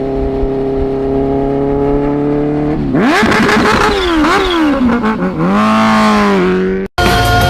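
Motorcycle engine under throttle. Its note climbs slowly for about three seconds, then swings sharply up and down several times as it is revved or shifted. It dips low, rises again and holds, and cuts off suddenly near the end.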